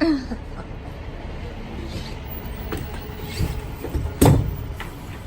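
A vehicle engine runs steadily in the background as a low rumble. A single loud metallic clunk comes about four seconds in.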